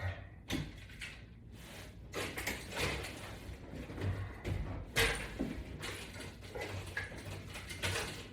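Scattered light knocks, clunks and rustling, typical of exercise equipment and straps being handled and set in place.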